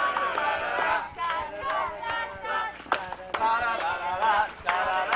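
Men singing in short phrases broken by brief pauses.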